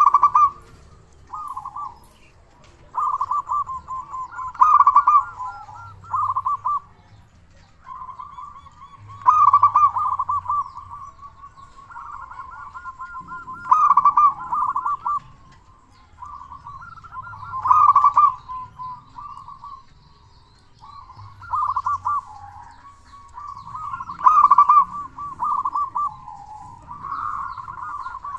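Male zebra dove (perkutut) cooing, a loud local bird singing phrase after phrase of rippling, trilled coos, about one phrase every three seconds.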